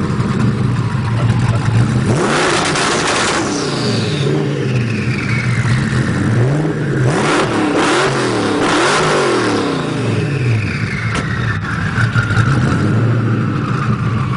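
A 1500+ hp Ford GT's V8 idles, then is free-revved in place: one hard rev about two seconds in and a quick run of blips around seven to nine seconds in, with sharp crackles during the revs. A high whine falls away after each rev.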